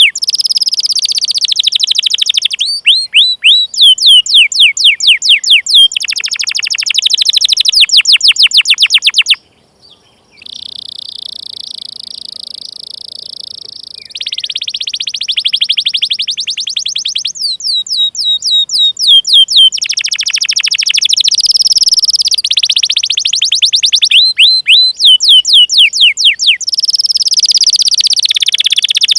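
Domestic canary singing: trains of rapid, sharply falling "cuit cuit" notes alternating with a steady rolling trill, with a brief break about nine seconds in.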